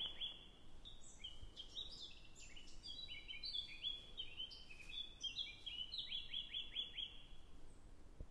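Birds chirping: many short, high notes sliding downward in quick runs, several overlapping, over a faint hiss.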